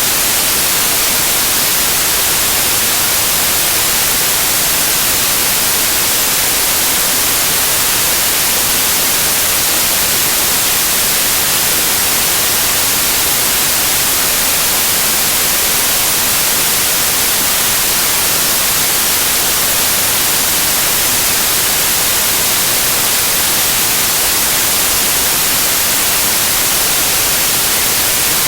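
Loud, steady white noise: an even, unchanging hiss with most of its energy in the high frequencies.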